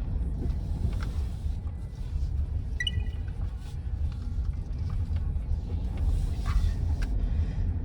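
Steady low rumble of road and engine noise inside a moving Toyota Sienta.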